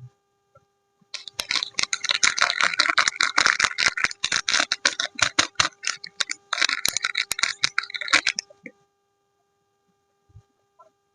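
Packaging crinkling and crackling as a bar of soap is unwrapped by hand: a dense run of rapid crackles lasting about seven seconds, with a short break near the end, then only a few faint taps.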